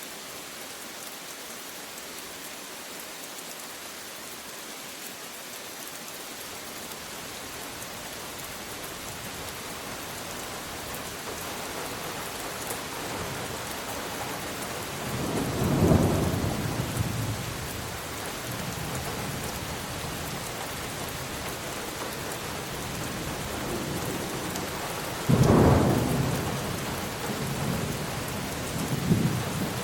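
Steady rain with thunder: a constant rain hiss that slowly builds, then a rolling thunderclap about halfway through and a louder, sharper one near the end, with lighter rumbles after it.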